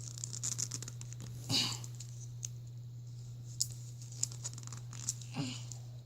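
A plastic fashion doll being handled while a fabric dress is worked onto it: light scratching, rustling and small clicks, with two louder rustles about a second and a half in and near the end, over a steady low hum.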